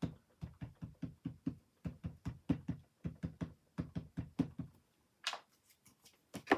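Rubber-stamping: quick light taps on the stamp, about four a second, for several seconds, then two short scuffing sounds near the end.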